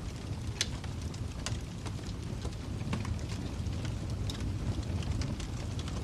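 Wood fire crackling in a fireplace: irregular sharp pops and snaps over a steady low rumble of the flames, with one louder pop about half a second in.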